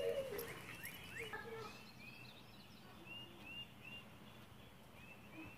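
Faint songbird chirps: short, high notes repeated over and over in small runs, over a low steady outdoor hum.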